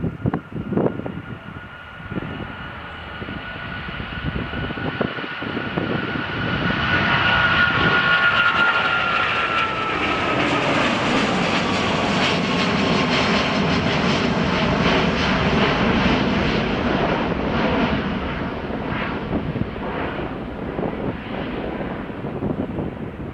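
Boeing 777-200 jet engines at takeoff thrust: a high fan whine that slowly drops in pitch over a heavy rumble. The rumble swells to its loudest about a third of the way in, then slowly fades. Wind buffets the microphone in the first couple of seconds.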